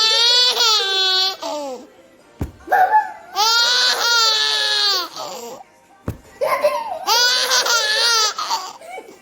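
A toddler laughing in three long, high-pitched squealing bouts, with two short sharp clicks in the gaps between them.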